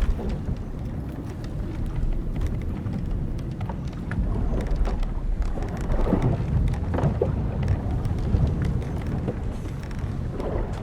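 Wind and sea washing with a steady low rumble, while the wooden hull and rigging of an old sailing ship creak and tick; the creaks come loudest a little past the middle and again near the end.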